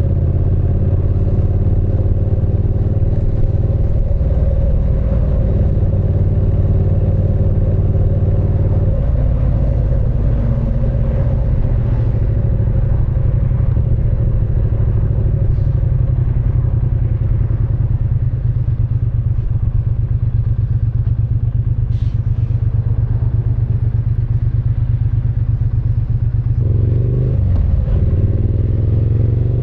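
Triumph Speed Twin 900's parallel-twin engine and exhaust running under way at steady revs. The engine note drops about nine seconds in, and the revs climb again near the end as the bike accelerates.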